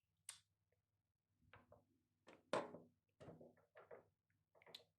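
Near silence broken by a few faint, scattered clicks and light knocks, the handling noise of something being fiddled with and set in place.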